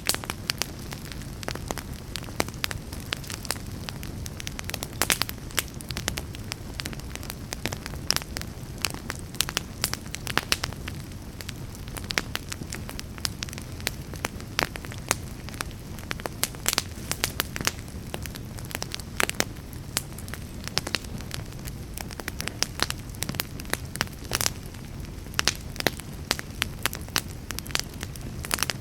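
Fire crackling in a fireplace: many sharp, irregular pops and snaps over a steady low rumble of burning.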